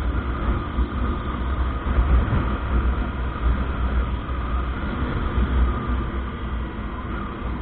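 Motorcycle riding noise: wind buffeting the microphone in a heavy, uneven rumble over the running engine and road noise.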